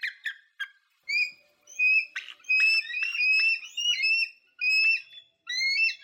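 A bird calling over and over: short, high, upslurred calls, about two or three a second, with a few faint clicks among them.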